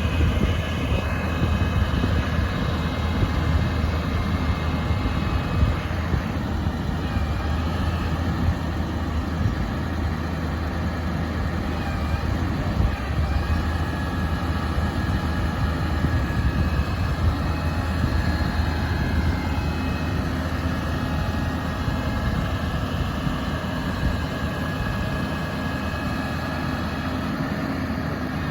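Engine of a 2007 GMC four-wheel-drive bucket truck running steadily, with faint wavering whines above the engine note.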